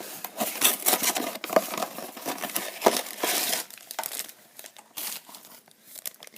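A blind-bag packet being handled, its plastic wrapping crinkling and crackling in quick irregular rustles, busy for the first few seconds and thinning out toward the end.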